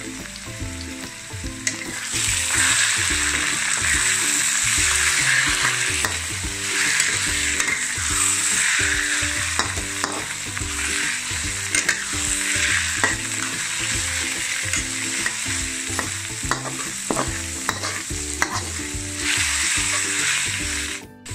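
Minced meat and dried shrimp sizzling in hot oil as they are stir-fried in a pan, the spatula stirring and tapping through the food. The sizzle starts about two seconds in and cuts off shortly before the end.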